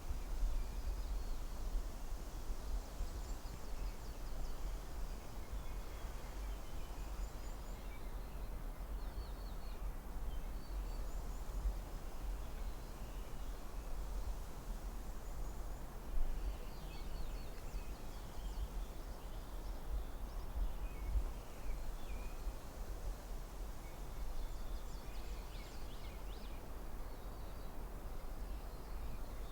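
Forest ambience: a steady low wind rumble under an even hush, with faint bird chirps and twitters here and there.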